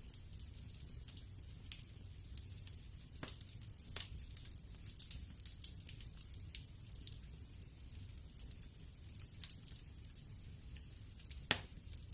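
Wood fire crackling in a fireplace: irregular sharp pops and snaps over a low steady rumble of the flames, with one louder pop near the end.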